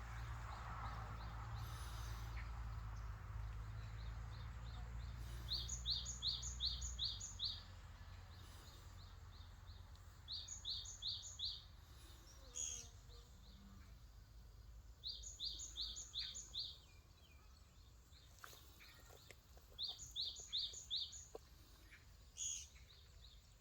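A small songbird singing a short, quick phrase of about five high notes, repeated four times roughly every five seconds, with a few single chirps between. A low rumble, like wind on the microphone, fades out about seven seconds in.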